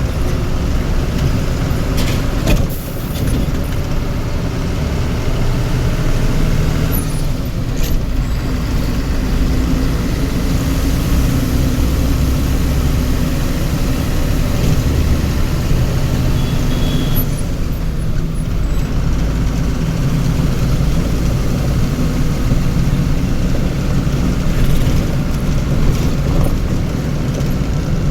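Heavy vehicle's engine running steadily with a low drone that rises and falls a little, along with road noise, and a sharp knock about two and a half seconds in.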